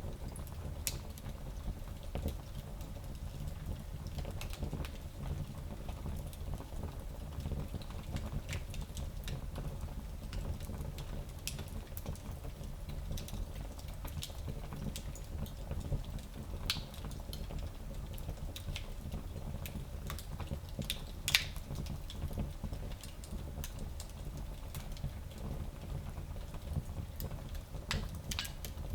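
Fire in a small fireplace crackling: a steady low rumble of flames with scattered small pops, and one sharper pop about three-quarters of the way through.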